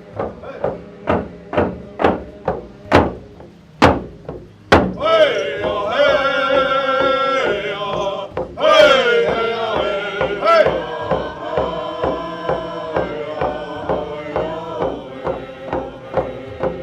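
Steady drumbeat, about two strikes a second, with chant-like singing coming in over it about five seconds in and carrying on with the beat.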